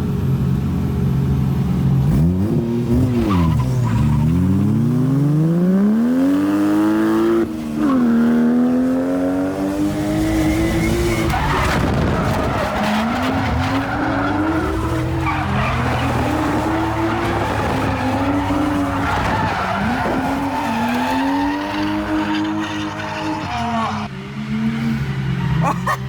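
Turbocharged 1JZ-GTE straight-six in a Nissan Silvia S14 drift car revving up and down through a drift run, its pitch climbing and dropping again and again. Tyres skid and squeal from about halfway through.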